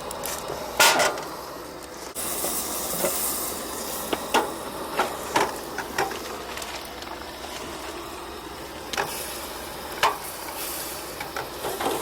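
Fish fillets frying in a pan, a steady sizzle in the last of the butter, with a dozen or so sharp clicks and knocks of a utensil against the pan, the loudest about a second in.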